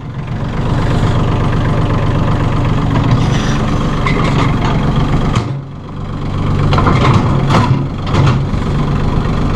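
Massey Ferguson 1635 compact tractor's diesel engine running steadily at idle while the front loader's hydraulics work, with a short dip in level a little past halfway. A few sharp knocks follow about three quarters of the way through.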